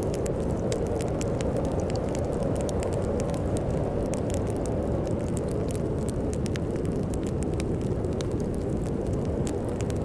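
Fireplace crackling with frequent sharp pops over a steady low rush of storm wind.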